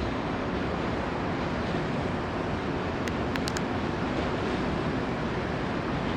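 Electric commuter train running along the station platform, a steady rushing rumble of wheels and motors, with a few faint clicks about three seconds in.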